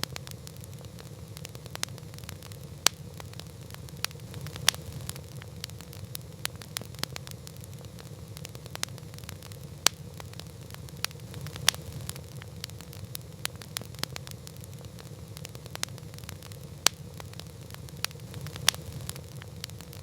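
Campfire burning with a steady low rumble and irregular sharp crackles and pops, several of them loud.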